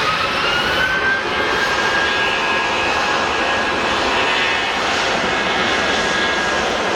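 Airliner's engines running loud and steady, with a whine that rises over about the first second and then holds at one pitch.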